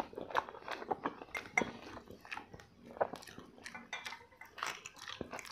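Close-miked eating of chicken drumsticks: an irregular string of short chewing and mouth-smacking clicks, with a few light clinks of a fork on a plate.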